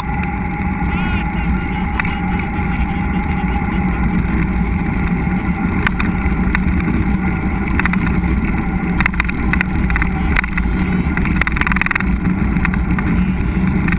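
Steady rumbling wind buffeting and rolling noise on a GoPro during a mountain bike ride, with scattered clicks and rattles from the bike on the rough trail.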